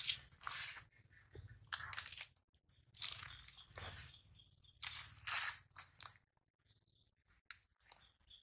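Crunchy food being bitten and chewed, in a series of loud crackly crunches about a second apart that stop about six seconds in.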